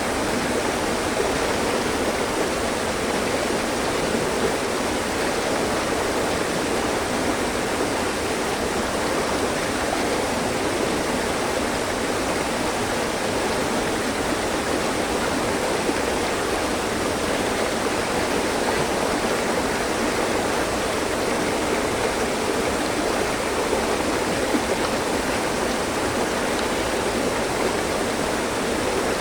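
Mountain stream flowing over rocks, a steady rushing and splashing of water.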